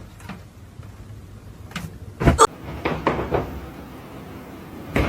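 Several short knocks and clatters, like a cupboard or door being handled: a loud pair a little over two seconds in and a few lighter ones soon after.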